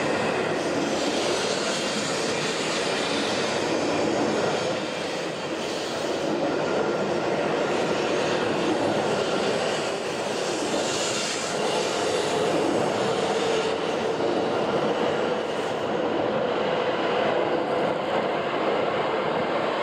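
E7 series Shinkansen train pulling out of the station and rolling past at low speed, a steady, loud running noise with a faint steady tone from the traction equipment.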